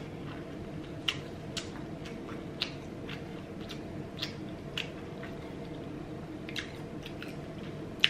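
A person chewing food with closed lips, close to the microphone: soft wet smacks and clicks at irregular moments, about one every half second to a second, over a faint steady low hum.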